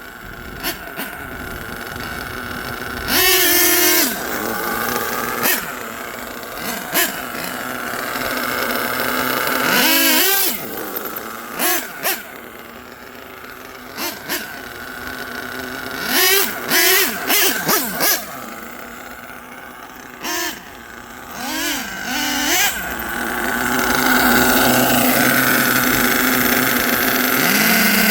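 Twin LRP .32 big-block nitro engines in an HPI Savage XL RC monster truck revving in repeated short bursts, the pitch rising and falling with each throttle blip. They settle into a louder, steadier run over the last few seconds.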